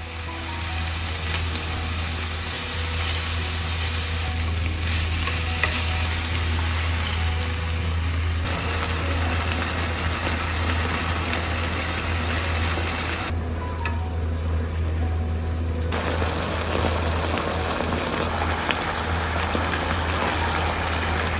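Food frying in hot oil in a pan, sizzling steadily, over a low steady hum. The sizzle changes character abruptly a few times.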